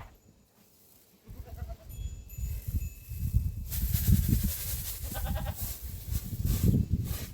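Goat bleating twice: a short call about a second and a half in, and a longer, wavering one about five seconds in. Both sound over a loud, uneven low rumble, with a hiss coming in partway through.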